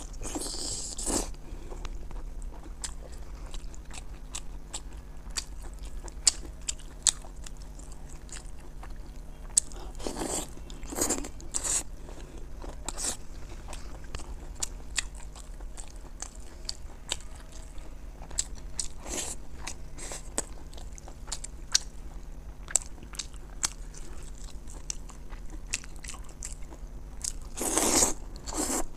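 A person eating: biting and chewing, with many sharp mouth clicks and louder bites about a second in, around ten to twelve seconds, and near the end.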